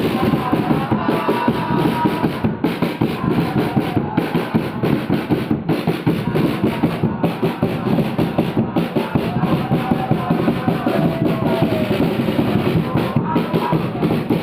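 Football supporters chanting and singing together to a steady beating drum, about three beats a second.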